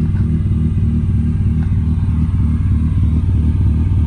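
Car engine idling steadily, a low, even pulsing run.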